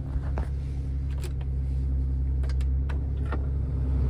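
Mercury Sable idling just after a cold start at freezing temperature, heard from inside the cabin: a steady low engine hum with a few light clicks over it.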